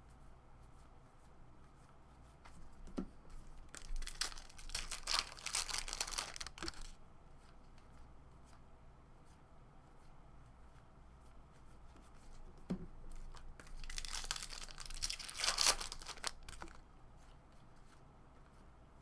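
Baseball card pack wrappers being torn open and crinkled, in two bursts of tearing a few seconds long, about ten seconds apart.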